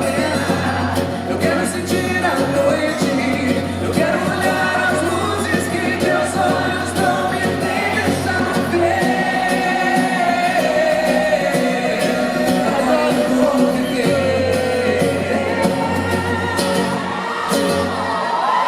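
Live pop band performance with sung vocals held in long, bending phrases over steady bass and accompaniment.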